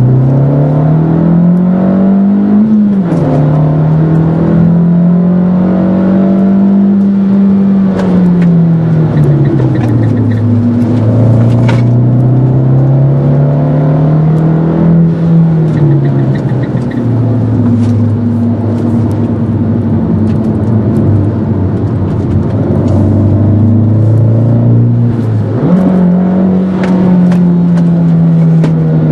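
Fiat Grande Punto Abarth's 1.4-litre turbocharged four-cylinder engine, heard from inside the cabin, being driven hard. The engine note climbs under acceleration and drops at an upshift about three seconds in. It then falls and climbs again twice, holds steady for several seconds, and jumps up sharply near the end as it shifts down, then slowly falls.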